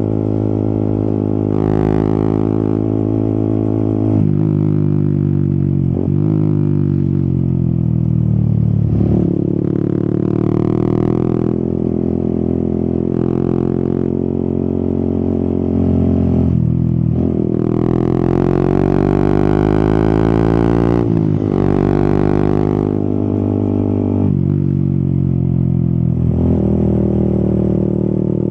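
Yamaha XSR 155's single-cylinder engine under way, revving up and down through the gears. The pitch climbs under throttle and drops sharply at each shift or roll-off, with a long rising pull near the middle.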